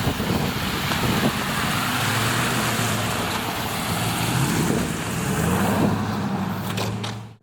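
Motor vehicle passing: a steady hiss of tyres with a low engine hum that shifts in pitch, cutting off suddenly near the end.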